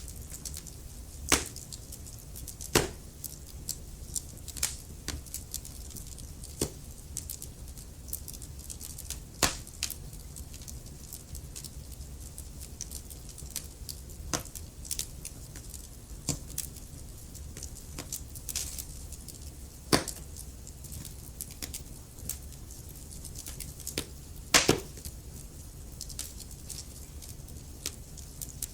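Wood fire crackling, with irregular sharp pops and snaps over a steady low rumble and hiss. A handful of louder snaps stand out, about a second in, near three seconds, near the middle and past the three-quarter mark.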